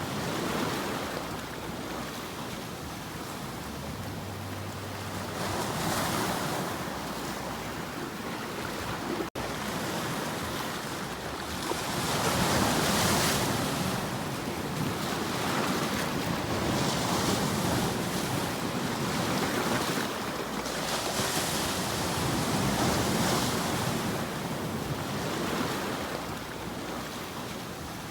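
Ocean waves washing onto a shore, the surf swelling and falling back every few seconds, with a brief cut-out in the sound about nine seconds in.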